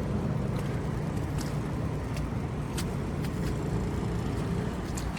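Steady low rumble of city street traffic, with the walker's footsteps in snow ticking about every two-thirds of a second.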